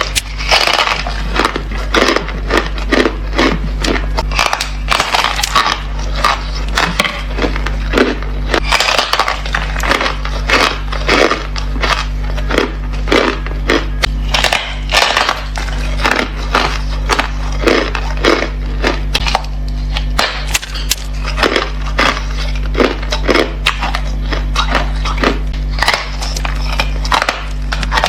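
Ice being bitten and chewed close to the microphone: a steady run of sharp crunches, several a second, over a low steady hum.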